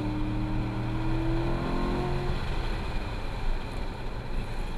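Chevrolet Corvette C7 Grand Sport's 6.2-litre LT1 V8 heard from inside the cabin while driven on a race track. The engine note rises for about two seconds, then is lost under steady road and wind noise.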